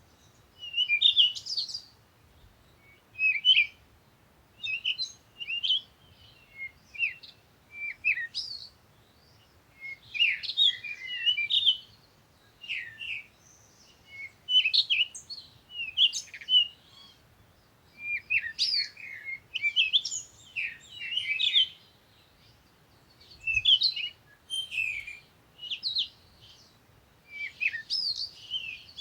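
Songbirds chirping and twittering in short, high-pitched phrases that come every second or two, with brief pauses between them.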